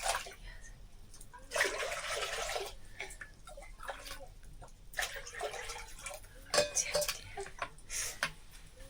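Water pouring and splashing in several short bursts, with faint voices underneath.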